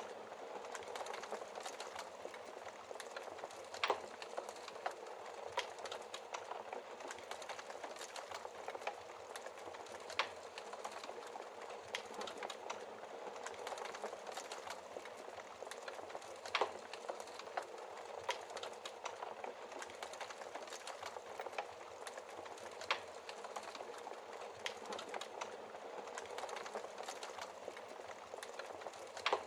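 Wood fire crackling in a fireplace: a steady hiss of burning with frequent small crackles and a louder pop every few seconds.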